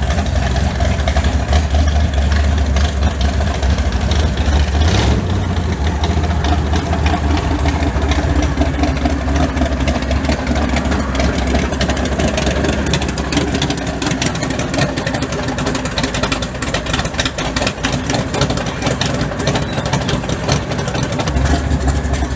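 Big-block Chevy V8 in a mud bog truck idling steadily, its low note easing off for several seconds near the end and then coming back. The spark plugs are fouled out and badly need replacing.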